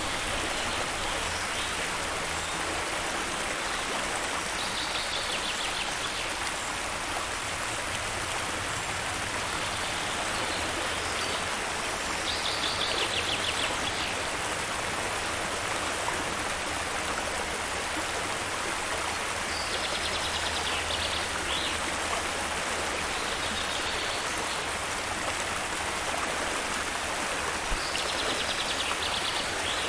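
Steady rush of a flowing stream, with a bird's short, rapid trill breaking in every few seconds, about six times.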